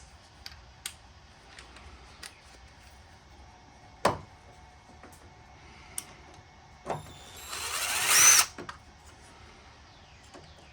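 A few light clicks and a sharp knock of metal parts being handled, then, about seven and a half seconds in, a power drill with a driver bit runs for about a second, speeding up as it backs a screw out of a furnace burner assembly.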